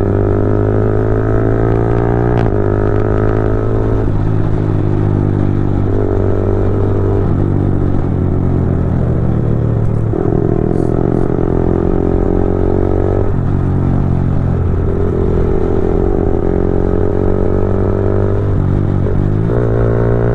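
Yamaha R15 V4m's single-cylinder engine running through a replica Leovince GP Corsa full-system exhaust while riding. The engine note climbs steadily, then steps sharply several times as gears are shifted.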